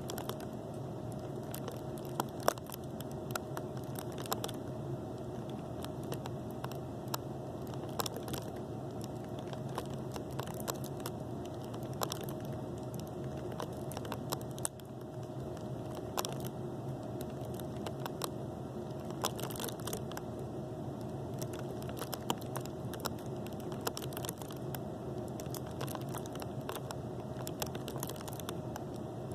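Scattered small pops and crackles at irregular intervals, a few sharper than the rest, over a steady low electrical hum: popping like popcorn.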